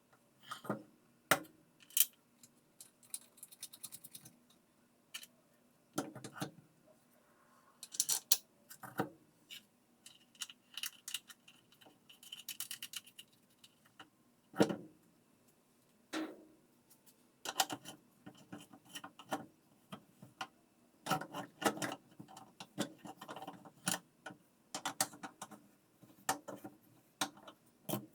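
Irregular clinks, clicks and knocks of hand tools and metal washing-machine parts being handled and fitted, some with a short metallic ring, with a few brief scrapes in between.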